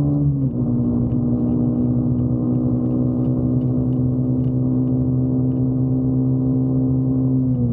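Motorcycle engine running at a steady cruising pitch; the pitch steps down a little about half a second in, holds steady, and starts to fall near the end.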